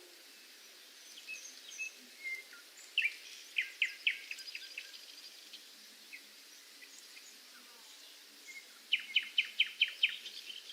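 A songbird singing: two phrases of quick, falling notes, each a run of about six to eight notes, one about three seconds in and another near the end, with a few fainter chirps between them over a soft steady outdoor background hiss.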